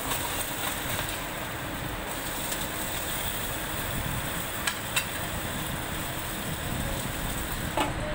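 Fish frying in hot oil: a steady sizzle, with a few light clicks of kitchen utensils.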